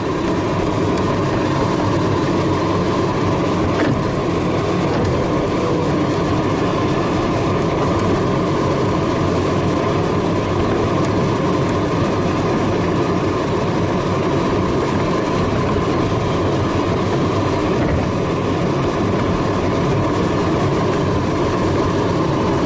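Steady rushing airflow noise inside the cockpit of a DG-300 glider on landing approach in strong, turbulent wind, with a deep rumble and no engine. The landing gear is down and the airbrakes are slightly extended.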